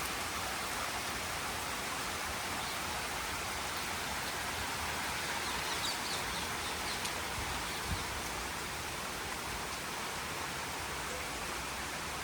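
Steady rain falling, an even hiss of drops on surfaces. A few faint high chirps come about halfway, and a single brief low thump near the end.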